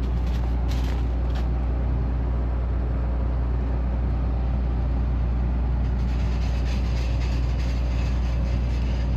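John Deere combine running steadily, a constant low engine and machinery drone with a few light clicks in the first second or so. The machine is still rattling, a bad vibration that the operator suspects comes from a worn gearbox.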